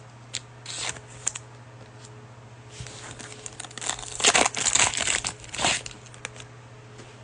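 Cellophane wrapper of a basketball card pack being torn open and crinkled, with scattered short rustles and then a loud burst of crinkling about four to six seconds in. A low steady hum runs underneath.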